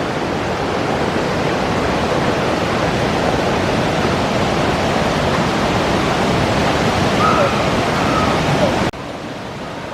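Steady rush of water from a river waterfall, falling away abruptly to a quieter level near the end.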